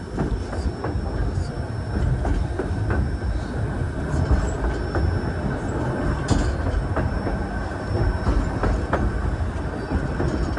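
White Pass & Yukon Route narrow-gauge passenger train running along the track: a steady low rumble of the cars rolling, with irregular clicks and knocks of the wheels over the rails.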